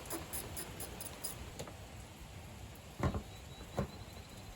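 Hand work on a car's front end: a run of faint quick clicks, then a few dull knocks from tools and parts being handled, the last two louder.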